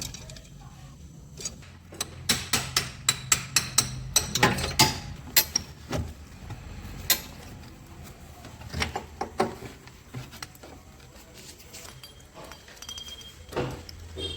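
Hand tools working on metal scooter parts: a quick run of sharp knocks, about three a second, lasting a few seconds, then scattered single knocks and clicks.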